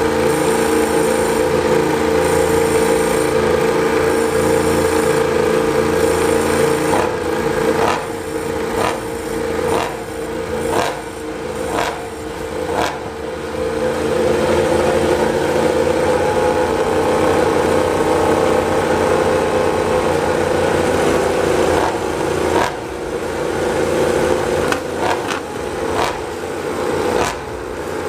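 MotoGP racing motorcycle engines running at high revs, a loud sustained engine note, broken by a run of brief dips about once a second around a third of the way through.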